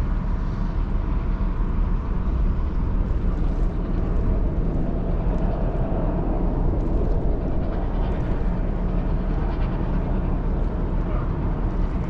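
Steady low rumble with a rushing hiss on top, unchanging throughout, from a Ro-Ro passenger ferry under way.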